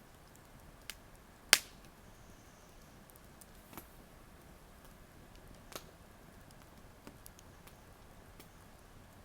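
Wood campfire crackling: scattered sharp pops and snaps over a faint low hiss, with one loud pop about a second and a half in.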